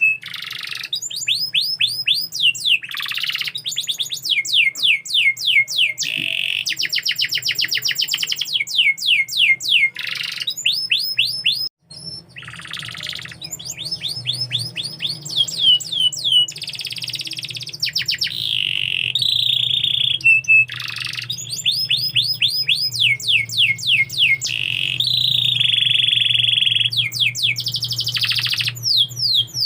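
Domestic canary singing: long rolling trills of fast, repeated downward-sweeping notes, phrase after phrase with short pauses between. The song breaks off for a moment about twelve seconds in.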